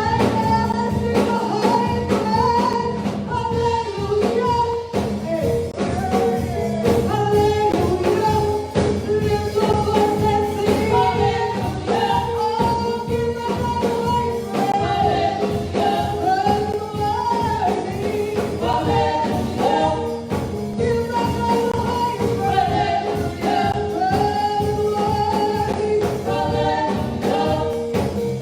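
Gospel music: singing over instrumental accompaniment with a steady beat.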